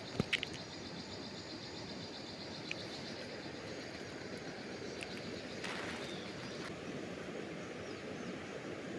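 Steady rush of river water, with a steady high-pitched hum above it and a few sharp clicks just after the start.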